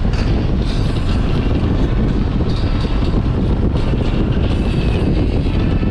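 Motorcycle running at speed on the road, with wind rushing over the microphone: a steady, loud rumble and rush that does not let up.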